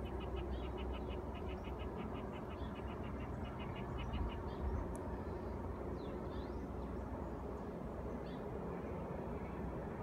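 A bird calling in a quick run of short, evenly spaced high notes, about six a second, for the first four seconds, followed by a few scattered chirps, over a steady low rumble.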